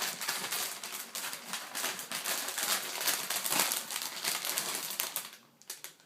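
Rapid crackling and crunching from a bag of Hot Cheetos being handled and the chips eaten. It dies away about five seconds in.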